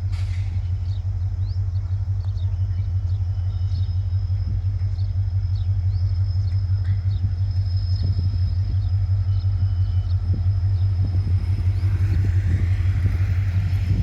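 WDP4 diesel locomotive's 16-cylinder two-stroke EMD engine running with a steady deep rumble. It grows a little louder in the last few seconds as the train departs.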